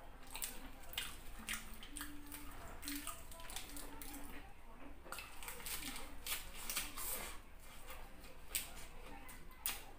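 Close-miked wet chewing and lip-smacking of soft fufu and chicken eaten by hand, with irregular squishy clicks.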